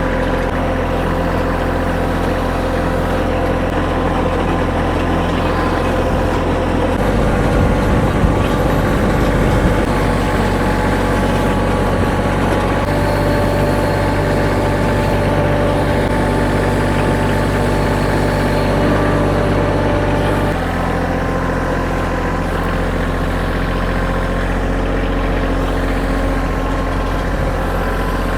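Kioti compact tractor's diesel engine running steadily under load as it pulls a gravel drag weighted with railroad ties. Its engine note shifts about seven seconds in and shifts back about twenty seconds in.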